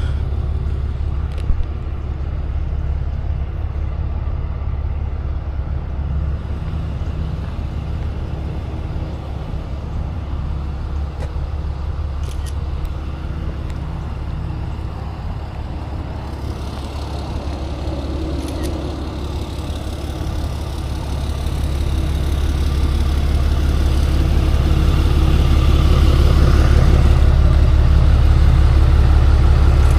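Tow truck engine running steadily at a low, even pitch, getting louder in the last third.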